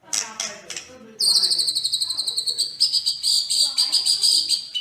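A songbird calling: a few quick falling notes, then about a second in a long, fast, high-pitched trill that carries on steadily.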